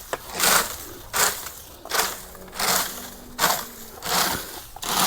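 Footsteps crunching on dry ground, about one step every three-quarters of a second at an even walking pace.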